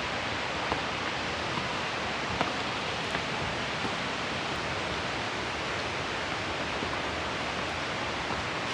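Steady rushing of a creek and waterfalls, an even hiss with a few faint clicks over it.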